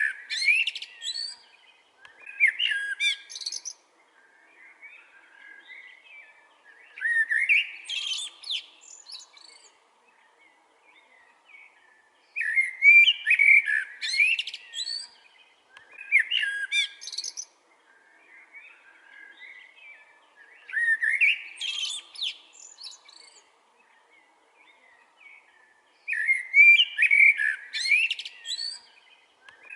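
Eurasian blackbird singing: a series of fluty warbled phrases, each about two seconds long and ending in high squeaky twitters, coming every four to six seconds, with soft twittering between the phrases.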